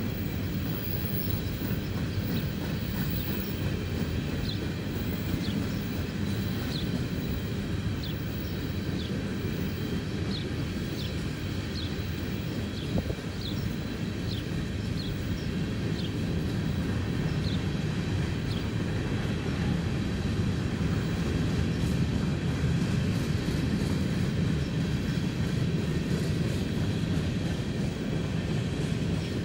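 Empty coal hopper cars of a freight train rolling past: a steady rumble of steel wheels on the rails that grows a little louder in the second half.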